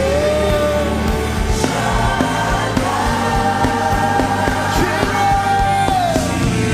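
Live gospel worship music: voices sing long held notes that slide off at their ends, over a steady band accompaniment.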